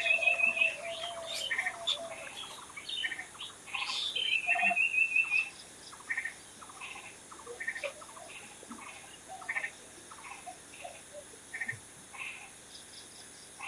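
Several songbirds chirping and singing, with two rapid trills in the first half. The calls thin out and grow quieter after about five seconds, leaving scattered chirps.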